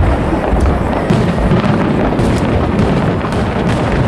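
Fireworks going off in a dense, continuous barrage: overlapping low booms with many small crackles and pops on top.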